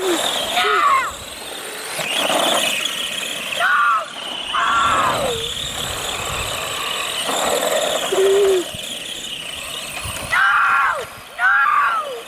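Electric RC cars' motors whining in short bursts that sweep up and down in pitch as the cars are throttled and steered, about six times, with a steady high whine through the middle.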